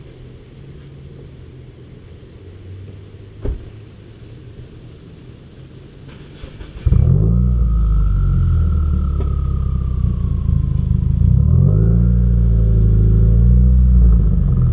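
2015 Subaru WRX's turbocharged flat-four engine and exhaust running low and quiet, with a single knock about three and a half seconds in. About seven seconds in it opens up sharply into loud acceleration, the engine note rising and dipping as it pulls.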